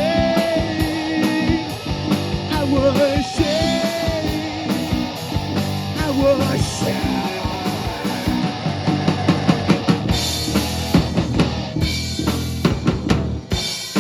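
Live rock band playing loud, with sustained guitar notes over bass and a drum kit. In the last few seconds the drums take over with a run of hard hits and cymbal crashes.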